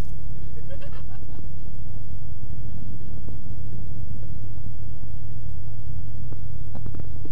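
Cessna 172's piston engine and propeller running at low taxi power after landing, a steady low drone heard inside the cockpit. A few faint clicks come near the end.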